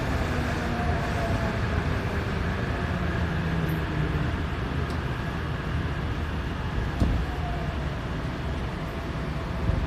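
Tokyo Metro 7000 series subway car running sound heard from inside the car as the train slows for a station: steady running noise with motor whine falling in pitch, and a sharp click about seven seconds in.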